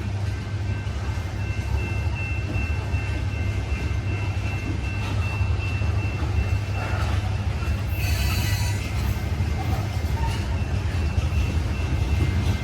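Heavily loaded freight train of rock cars rolling slowly past, a steady low rumble with faint thin wheel squeals over it and a brief sharper screech about eight seconds in.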